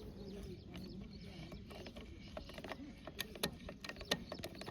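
A JCB 3DX backhoe loader at work digging and loading mud, its diesel running under a dense run of sharp, irregular clicks and knocks that gets busier about three seconds in.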